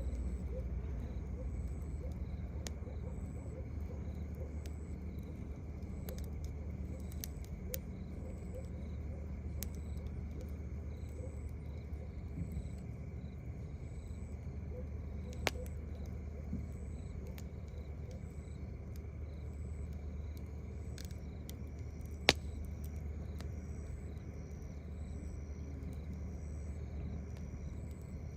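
Crickets chirping in a steady, even rhythm over a campfire crackling, with two sharp pops from the fire, one about halfway through and a louder one about three-quarters of the way in. A steady low rumble runs underneath.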